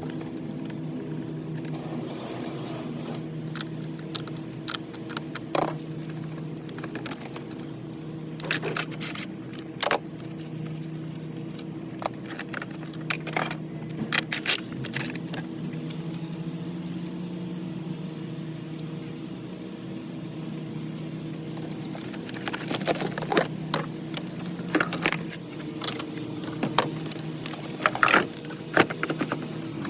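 Metal hand tools clinking and rattling in irregular bursts as a car battery's terminal clamps and hold-down are worked loose and refitted, over a steady low hum.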